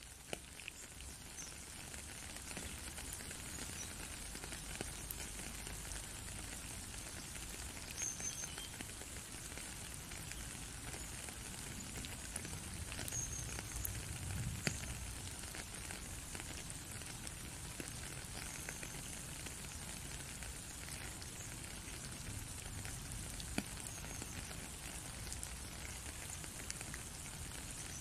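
Light rain falling steadily: a soft, even hiss sprinkled with small drop ticks, swelling up over the first couple of seconds.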